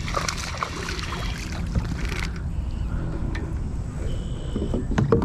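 A small hooked fish splashing at the surface as it is reeled in to the kayak for about the first two seconds, then a low steady rumble.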